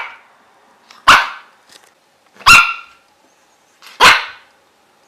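A dog barking, single loud barks spaced about a second and a half apart, three in all.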